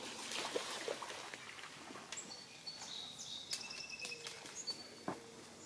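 Songbirds chirping in the woods, with short, thin, high calls through the middle. Faint rustling comes at the start, and a single sharp snap or knock near the end.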